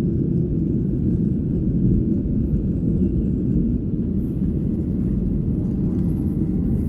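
Jet airliner cabin noise during takeoff and climb: a steady low rumble of the engines and airflow heard from inside the cabin.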